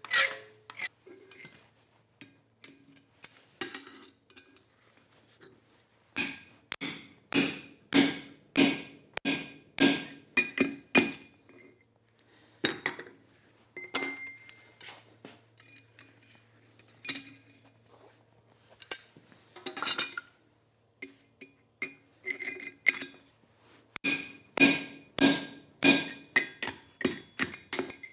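Hammer blows on steel at the anvil, each with a short metallic ring, in runs of about two strikes a second and with single taps in between.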